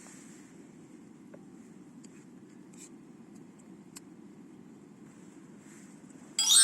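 A low steady rush with a few faint clicks, then near the end a sudden loud metallic clang that rings on and dies away, like a metal object being struck or dropped.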